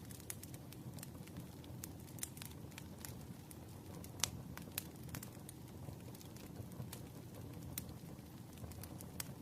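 Fire crackling, with irregular sharp pops, the loudest about four seconds in, over a steady low wash of rain.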